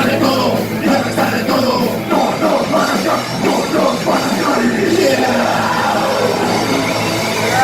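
Rock band playing a song, loud and dense, in a passage with no lyrics sung.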